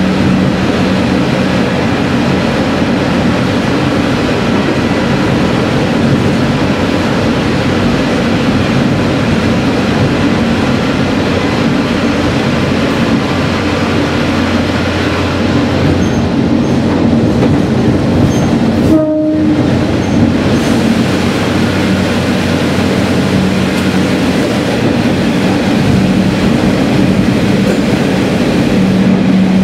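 Sanriku Railway diesel railcar running steadily through a tunnel, a continuous drone of engine and wheels on rail. About two-thirds of the way through, the sound cuts out almost completely for a moment.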